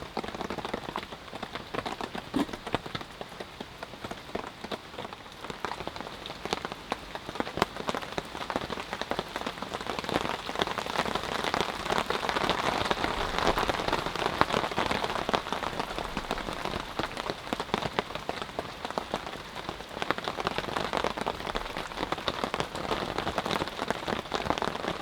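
Rain falling steadily, with many drops ticking on a nearby surface. It grows heavier around the middle, then eases a little.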